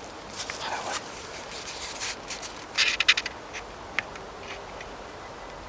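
Footsteps crunching and scraping through dry leaf litter and twigs, with a quick cluster of sharp crackles about three seconds in.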